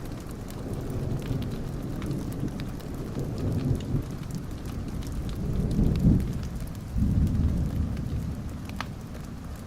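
Thunder rolling over steady rain: a low rumble that swells several times, loudest about six and seven seconds in, with scattered light ticks of drops over it.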